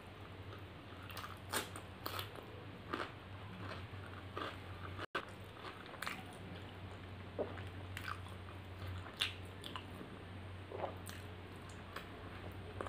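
Close-miked chewing and eating-by-hand mouth sounds, irregular short wet clicks and smacks, over a steady low hum. The food is fried rice, mutton curry and roti dipped in gravy.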